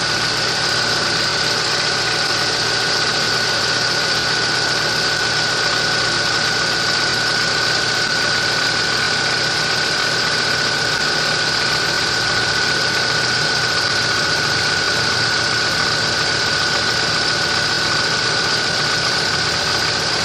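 Engine running steadily at constant speed, with a steady high whine over it. The engine has been treated with a friction-reducing metal treatment and is running smoothly.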